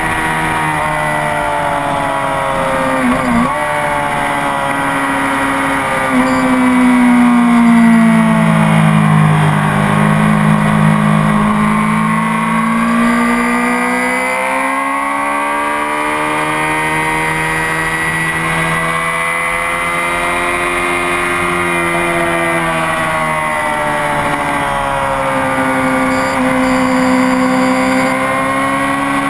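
Honda CBR600RR sport bike's inline-four engine running hard on a racetrack. Its pitch falls over several seconds as the bike slows for a corner, then climbs again as it accelerates out, with another dip and rise near the end.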